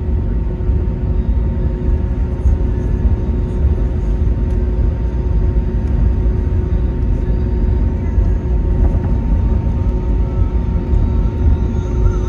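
Airbus A321neo jet engines running, a loud, steady deep rumble with a steady hum over it.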